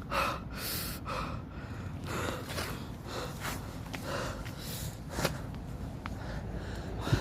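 A person breathing hard in short, rapid gasps, about two breaths a second.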